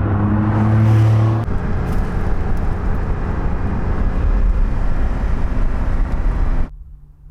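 Porsche 911 Carrera T's twin-turbo flat-six engine running at steady revs, then giving way to a loud rush of engine and road noise as the car drives. The sound cuts off abruptly near the end, leaving a faint low hum.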